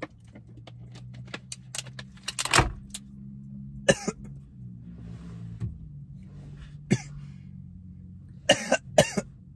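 Car engine idling inside the closed cabin, a steady low hum, under scattered light clicks and handling noise. There is a loud thump about two and a half seconds in, and a few short coughs, the last ones close together near the end.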